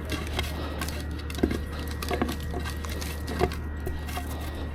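Scattered light clicks and knocks of tools and parts being handled, a second or so apart, over a steady low hum.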